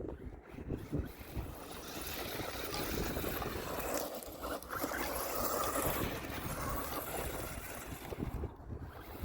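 A small electric RC truck, the WLtoys 124006 Desert Racer, driving over dirt, with wind rushing on the microphone; the sound rises into a broader hiss for most of the middle.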